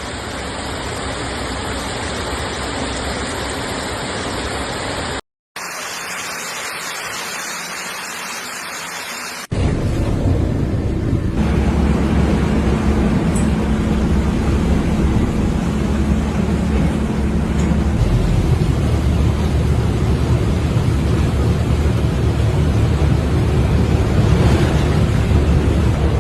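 Steady rushing noise of heavy rain and floodwater in short cut-together clips, with a brief dropout about five seconds in. From about ten seconds in it turns louder, with a low rumble underneath.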